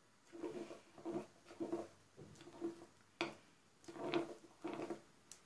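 A spoon stirring a thick cocoa, gelatin and warm-milk paste in a small bowl, scraping round in repeated strokes a little under two a second.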